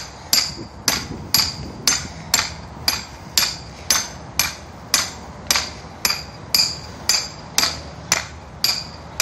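Hand hammer striking over and over at a steady pace of about two blows a second, each blow a sharp hit with a brief metallic ring.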